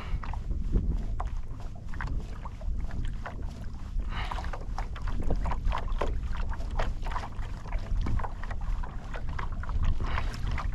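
Water splashing and sloshing around a kayak, with scattered short knocks and a steady low wind rumble on the microphone.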